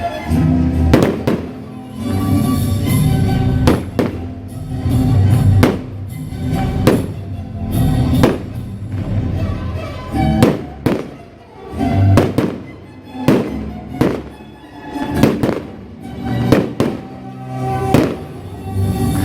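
Fireworks display: shells bursting with sharp bangs roughly once a second, some in quick pairs, over loud music playing alongside.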